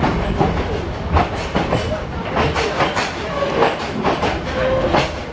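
Yangon Circular Railway train running along the track, heard from inside the carriage: a steady rumble with irregular rattling and clicking knocks from the wheels and carriage.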